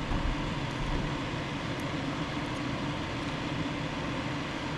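A fan running steadily: a constant airy whoosh with a low hum underneath, with a few faint small clicks.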